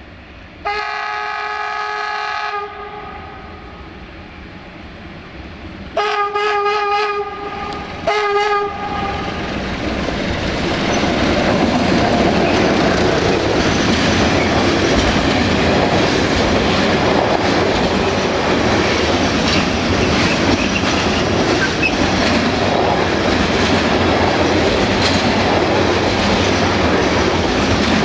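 Electroputere 060-DA (LDE2100) diesel locomotive sounding its horn: one long blast about a second in, then several short toots and a final blast around six to nine seconds. The freight train then comes past, growing louder, and its covered wagons roll by with a steady rumble and a clatter of wheels over the rail joints.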